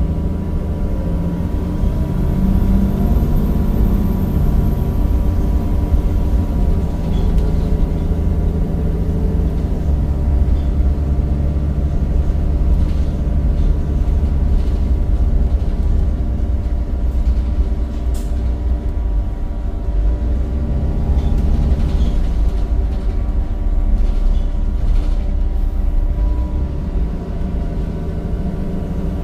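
Cummins diesel engine and ZF automatic gearbox of a Temsa Avenue single-deck bus, heard from on board while under way: a steady low rumble whose pitch rises and falls a couple of times as the bus changes speed.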